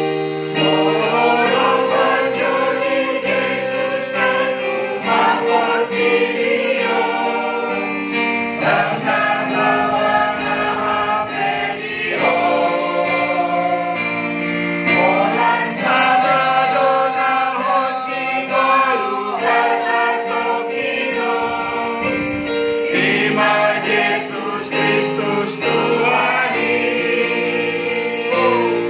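Church choir rehearsing, several voices singing in parts. They hold chords in phrases a few seconds long, with short breaks between phrases.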